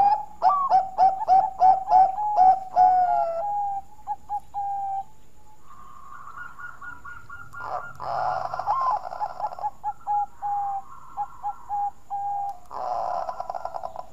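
Zebra dove (perkutut, Bangkok line) cooing: a quick run of short, clipped coos, about two a second, then further broken runs of coos.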